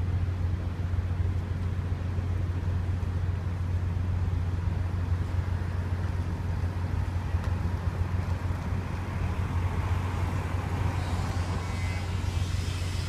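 A ferry's engine drones low and steady. A rushing hiss swells in over it near the end.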